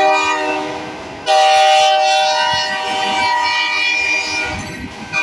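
CPKC diesel locomotive's air horn sounding a chord: one blast tails off about a second in, then a second long blast starts sharply and fades near the end.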